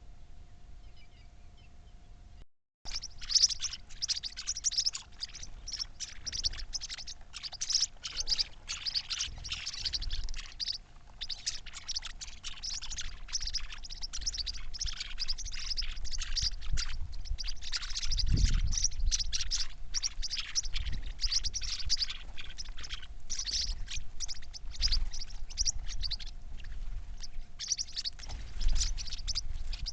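Many small birds chirping and twittering together in a dense, continuous chatter that starts after a brief break about three seconds in. A faint steady hum lies underneath.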